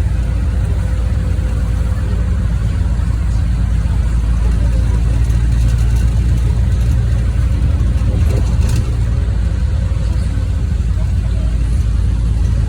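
NefAZ 5299 city bus running on the road, heard from inside the passenger cabin: a steady, loud low engine drone with road noise. There is a brief high hiss about two-thirds of the way through.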